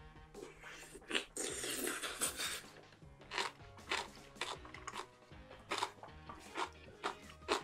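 Close-miked eating of a big mouthful: a loud crunchy bite about a second in, then crunchy chewing about once or twice a second, over soft background music.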